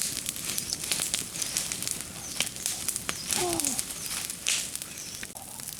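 Irregular sharp crackles and pops over a steady hiss, typical of a wood fire burning. A short falling call, voice-like, comes about three and a half seconds in.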